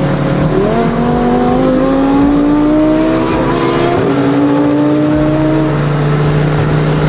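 Car engine accelerating hard, its pitch climbing steadily with a brief dip about three and a half seconds in, like a gear change. It then climbs again before easing back to a steady cruising drone.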